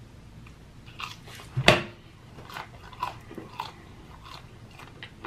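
Close-miked biting into a crispy fried chicken nugget: one loud crunch about a second and a half in, then chewing with a string of smaller crunches.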